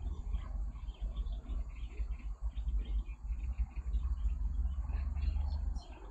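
Small birds chirping in many short calls over a steady low rumble.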